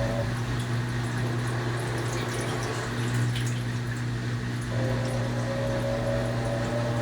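Panasonic 12 kg washing machine running with water moving inside, over a steady low motor hum. About two-thirds through, a whine starts and rises slightly in pitch.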